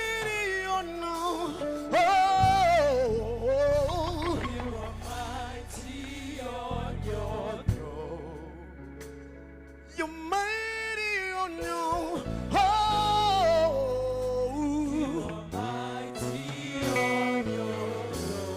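Slow gospel worship music: a solo voice sings long, sliding, ornamented lines without clear words over held bass notes and chords.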